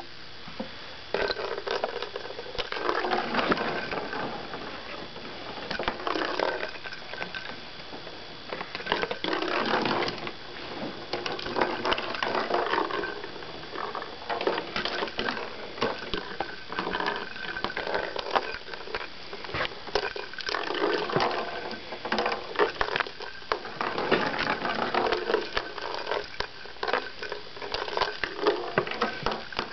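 Irregular clicking, knocking and rattling as a pet budgie pushes and tumbles a small toy ball about.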